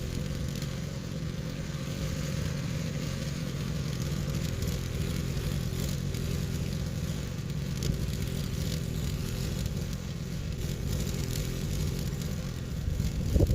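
A motor or engine running steadily at an even speed, a constant low hum.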